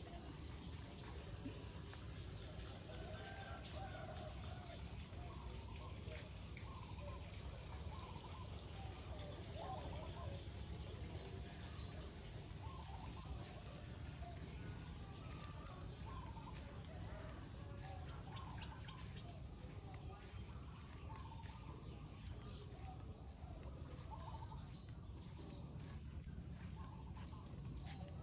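Insects trilling with a steady high pitch that turns into a fast pulsing trill midway, while birds chirp here and there over a low background rumble.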